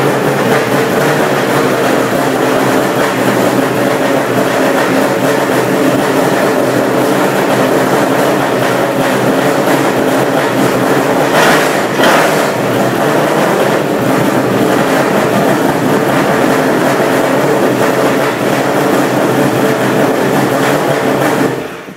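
V8 engine of an NZV8 TLX Toyota Camry race car running steadily at idle while warming up, with one brief surge about halfway through; it cuts off suddenly near the end.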